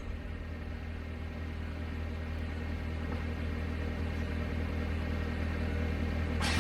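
An engine running steadily: a low, even drone that grows slowly louder.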